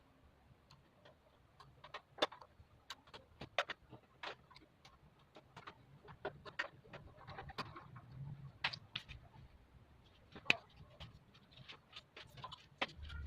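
Irregular sharp clicks and light knocks of parts being handled and fitted while a split air conditioner's indoor unit is assembled, the loudest about two seconds in and near ten seconds in.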